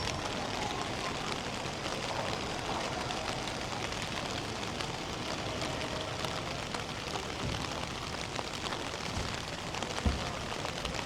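Steady rain falling and spattering on the ground, a continuous hiss dotted with many small drop ticks. A single low thump comes near the end.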